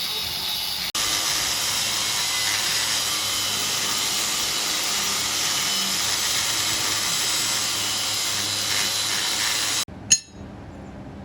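Steady harsh hissing noise of metalwork in a welding workshop. It cuts off abruptly near the end, followed by a single sharp click.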